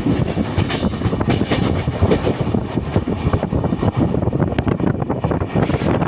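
A train running along its track: a steady rumble with a dense, continuous clatter.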